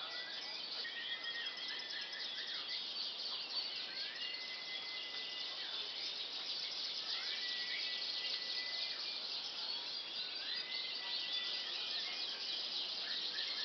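Canaries chirping and trilling rapidly and continuously, with a longer held whistle that recurs about every three seconds.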